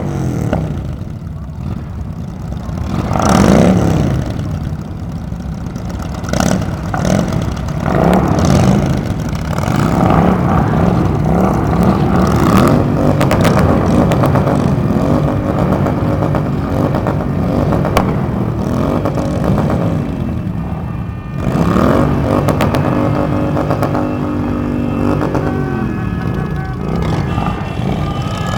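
Several Harley-Davidson V-twin motorcycles with loud pipes revved repeatedly, their engines rising and falling in pitch and overlapping one another as the group rides off.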